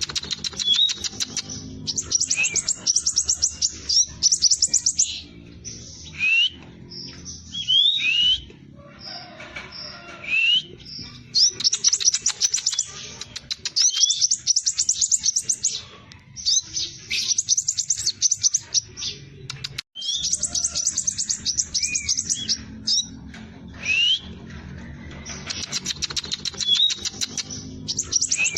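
Scarlet minivet (sepah raja) singing: bursts of very fast, dense rolling trills about one to two seconds long, broken by short slurred whistles, over a low steady hum.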